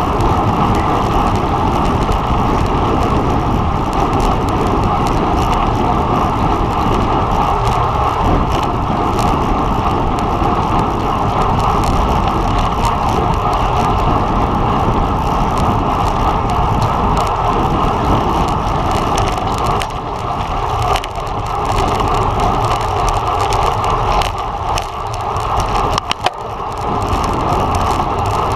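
Steady wind and road noise on a camera riding on a road bike during a criterium race, with a short dip and a click about two seconds before the end.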